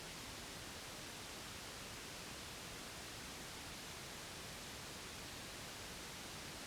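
Steady white noise, an even unbroken hiss across the whole range, played as a sleep aid for a baby.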